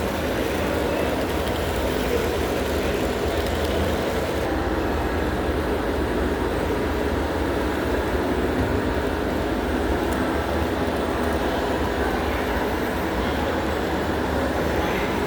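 Steady, even noise of a busy train-show hall, with N scale model trains running on the layouts.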